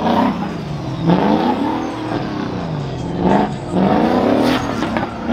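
A truck engine being revved hard, its pitch climbing and dropping several times in quick succession.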